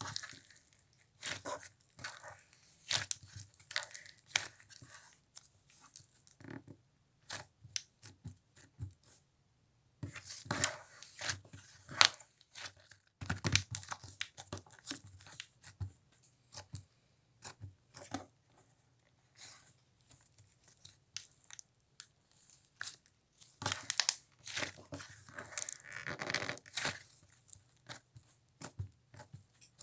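Fluffy slime being squished, stretched and pulled apart by hand, making irregular clusters of crackling, tearing sounds.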